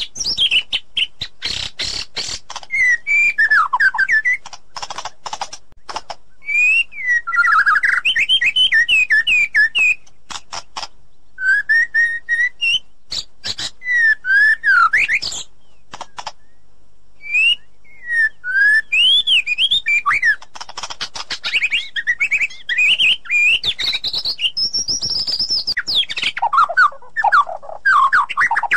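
White-rumped shama singing: loud, varied phrases of gliding whistles and warbles mixed with runs of sharp clicking notes, delivered in bursts with short pauses between them.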